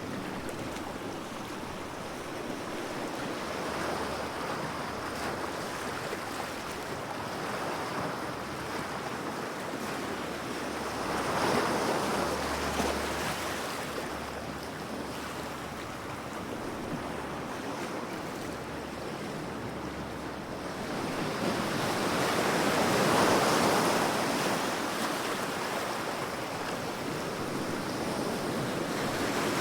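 Ocean waves breaking and washing onto a shore: a steady rush of surf that swells twice, about a third of the way in and again past two-thirds, and rises once more at the end.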